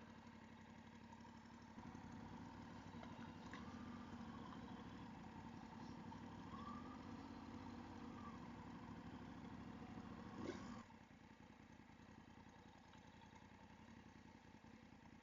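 Faint motorcycle engine running at low speed, its pitch rising and falling gently, with a short sharp knock about ten seconds in. It turns quieter just after.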